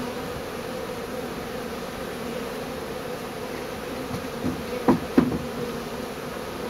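A large honeybee swarm buzzing steadily, with two short knocks about five seconds in.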